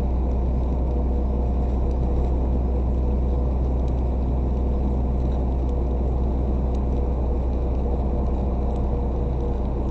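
Truck engine running steadily with a deep, even rumble.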